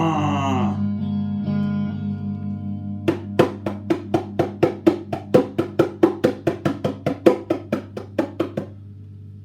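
Bongos played in a quick run of hand strikes, about four a second, coming in about three seconds in over a steady held guitar and bass backing, and stopping shortly before the end.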